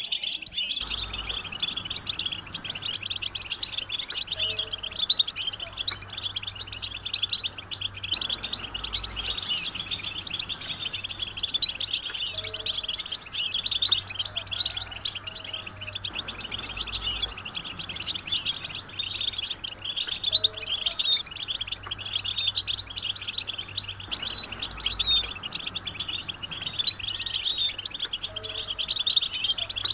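Several European goldfinches chattering and singing together, a dense, unbroken stream of fast, high twittering: group chatter and mating calls of the kind used to stir a male goldfinch into song. A steady low hum sits underneath, and a short pair of low tones recurs every few seconds.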